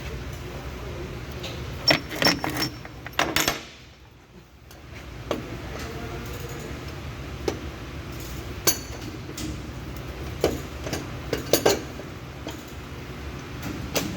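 Metal hand tools and parts clinking and knocking in irregular bursts over a steady low hum, with the loudest clusters about two seconds in and again near the three-quarter mark.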